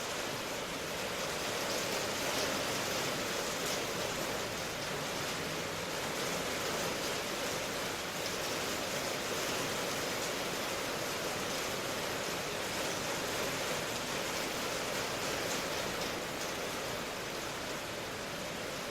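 Steady rain falling, an even hiss with faint fine patter and no distinct drops or thunder.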